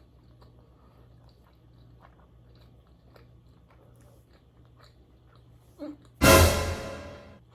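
Close-up chewing of sushi, with soft wet mouth clicks. About six seconds in, a sudden loud rush of noise fades out over about a second.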